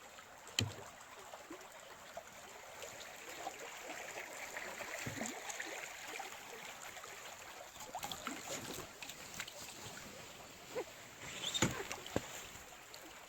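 Canoe paddling: paddle strokes swishing and dripping in moving river water, with a few sharp knocks, one about half a second in and a louder group near the end.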